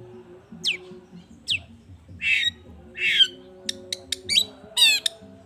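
Long-tailed shrike (cendet) calling: two quick whistles sweeping sharply down in pitch, then two harsh rasping squawks, a few sharp clicks, and a fast buzzy trill near the end. Soft music runs faintly underneath.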